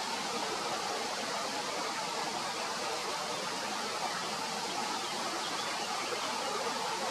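Steady, even rushing noise with no distinct calls or events.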